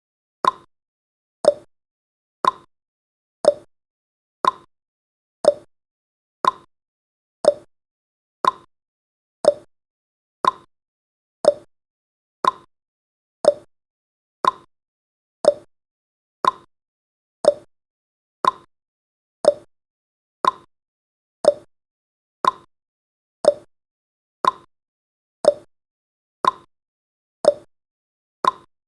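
A countdown timer's clock-tick sound effect: one short, sharp tick every second in an even rhythm.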